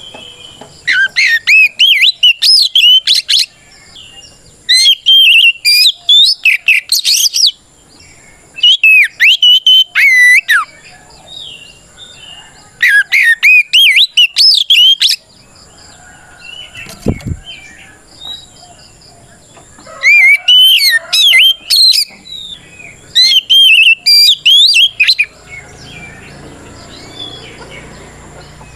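Oriental magpie-robin (kacer) singing at full volume in six loud bursts of rapid, sweeping whistled phrases, each two to three seconds long with short pauses between. This is a fighting song, calling out a rival.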